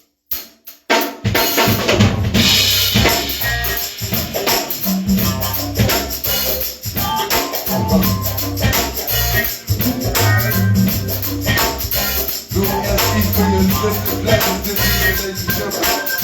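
A live band's instrumental groove kicks in about a second in, after a few short clicks: drum kit with snare and bass drum keeping a steady beat over a bass line.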